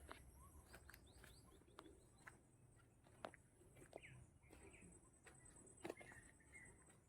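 Faint, scattered bird chirps with a few soft clicks over quiet outdoor ambience.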